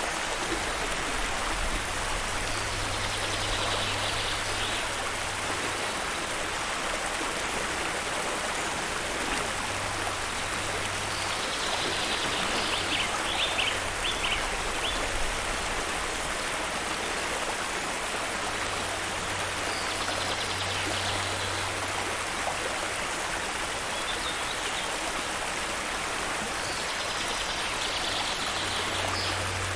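Steady rush of a flowing stream, with brief high bird chirps breaking in four times over it.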